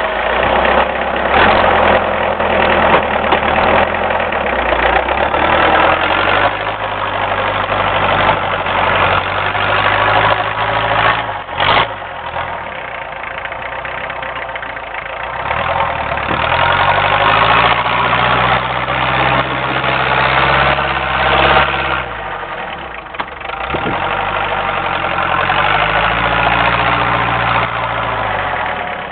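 Homemade doodlebug tractor's diesel engine running while plowing heavy wet snow. It holds steady at first, then revs up and settles back twice, with a single sharp knock partway through.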